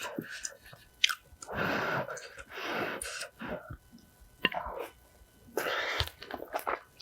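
A person chewing and crunching food close to the microphone, in irregular bursts of bites with a few sharp clicks.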